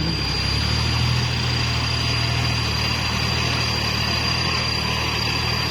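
Kubota farm tractor's diesel engine running at a steady speed with a low drone, and a thin high whine throughout.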